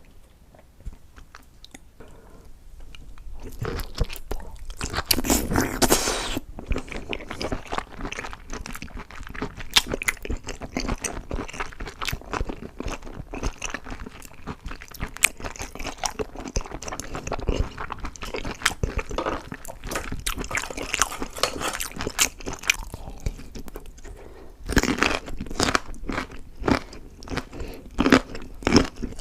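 A person biting into and chewing crunchy food, close to the microphone: after a quiet start, a loud crunching bite about five seconds in, steady crackly chewing, and another loud bite near the end.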